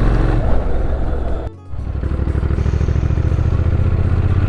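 Motorcycle engine running at a steady speed on the road, with a brief drop-out about a second and a half in.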